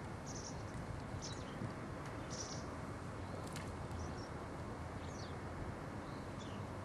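Birds chirping in short high calls, some falling in pitch, about once a second, over a steady outdoor noise.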